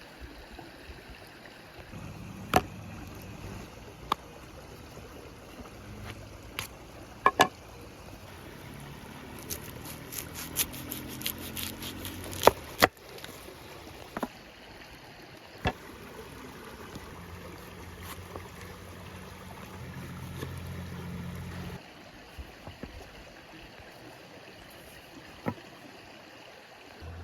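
Scattered sharp knocks and clicks over a steady low background noise, with a quick flurry of them about ten to thirteen seconds in.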